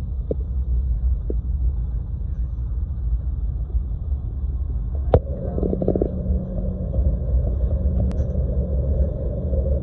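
Steady low rumble of a jet airliner heard inside the passenger cabin. A sharp click comes about five seconds in, and a steady hum joins the rumble just after it; a second click follows near the end.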